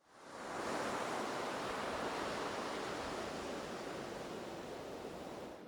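Ocean surf breaking and washing onto a beach, a steady rush that fades in over the first second and cuts off at the end.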